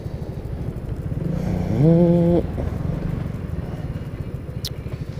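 Honda C50's small single-cylinder four-stroke engine running at low speed with a steady, rapid putter. About two seconds in, a buzzing tone swoops up and holds for about half a second, louder than the engine, then stops abruptly; a brief high squeak comes near the end.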